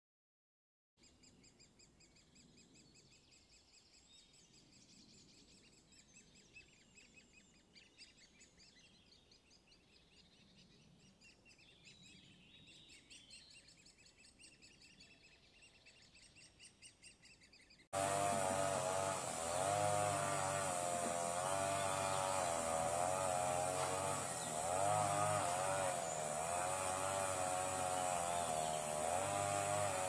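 Faint bird chirps and trills, repeated over and over, start about a second in. About 18 seconds in, a much louder steady buzzing drone with a wavering tone and a low hum takes over.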